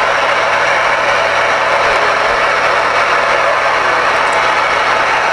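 Steady, loud static hiss from the Ranger 2970N2 radio's speaker with the squelch open, with a faint low hum under it; any station answering on channel 19 is buried in the noise and cannot be made out.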